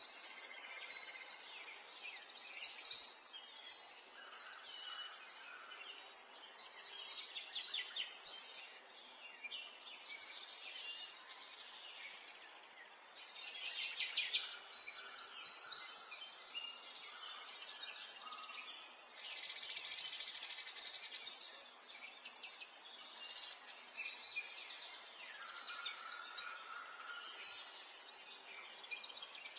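Birdsong: several birds chirping and trilling in quick high phrases, one after another.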